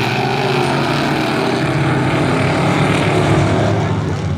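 Dirt-track race trucks running at full throttle together, engines accelerating away on the green-flag start.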